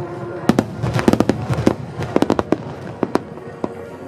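Aerial fireworks exploding in a rapid, irregular run of sharp bangs, several coming in quick clusters, thinning out slightly toward the end.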